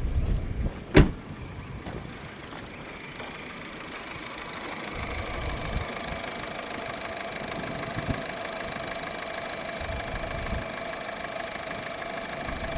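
Honda City car engine running at idle. A single sharp, loud click about a second in; after it the low rumble drops and a quieter, steady whine carries on.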